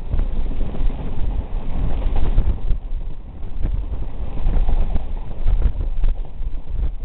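Passenger train running at speed, heard from inside the coach: a steady low rumble with irregular clacks and knocks from the wheels and carriage.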